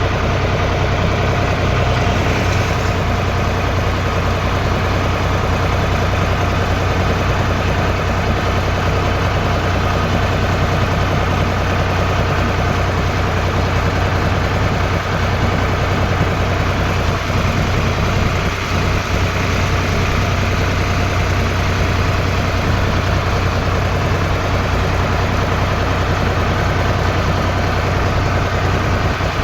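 Tractor engine running at a steady speed, an even low drone that does not change.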